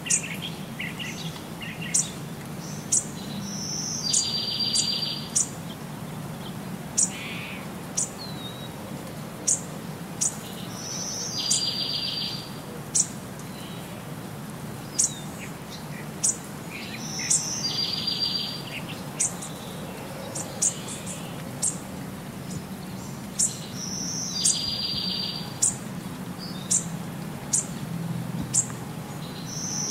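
Birds chirping and calling: sharp high chirps every second or two, and a buzzy trill about a second long that comes back every six or seven seconds, over a low steady hum.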